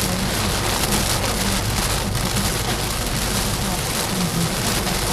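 Water spraying onto a car in a car wash: a steady, dense hiss like heavy rain drumming on the body.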